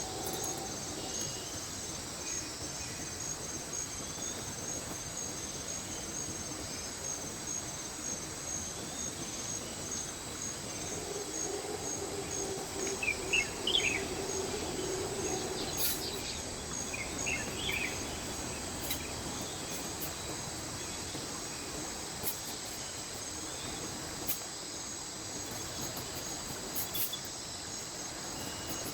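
Insects chirping in a steady, regularly pulsing high trill over the even rush of a mountain stream, with a few short bird chirps around the middle.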